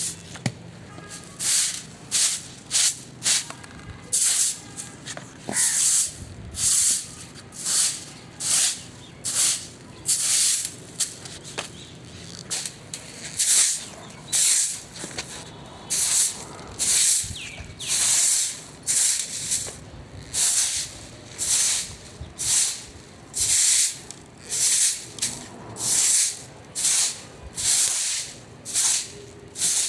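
Rhythmic short hissing strokes of cleaning, about one and a half a second, each a brief rush of sound.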